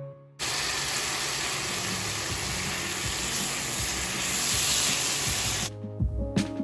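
Spiced dry beans sizzling as they fry in a stainless steel pan while a spatula stirs them. The sizzle starts suddenly about half a second in and cuts off near the end, where background music with a beat comes back.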